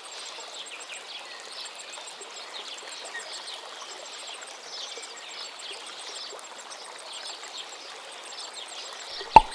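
Outdoor nature ambience: a steady rushing hiss with faint scattered bird chirps. A single sharp click sounds near the end.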